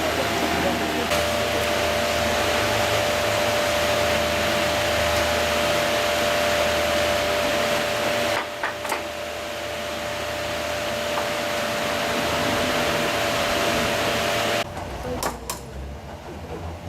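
A motor-driven machine running with a loud steady rushing noise and a whine, dipping briefly about halfway and cutting off abruptly about two seconds before the end, followed by a couple of sharp knocks.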